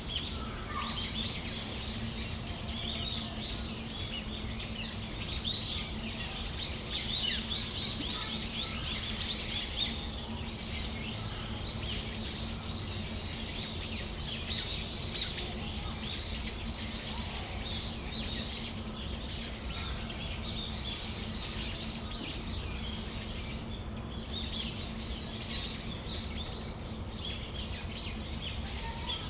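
Brown-eared bulbuls calling, a dense stream of short, high chirps and squeaks throughout, over a steady low hum.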